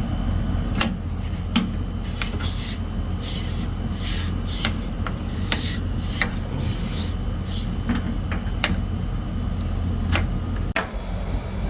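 Scattered clicks, knocks and rubbing from hands working on parts, over a steady low hum.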